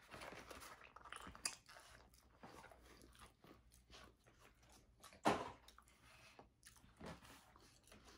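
Close-miked chewing with scattered crunches, mixed with the taps and rustle of a cardboard slider box being handled. One sharp click stands out about five seconds in.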